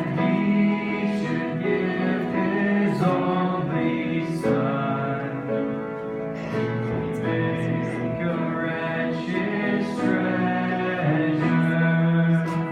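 Worship song: a sung melody with guitar accompaniment, long held notes moving through a slow tune.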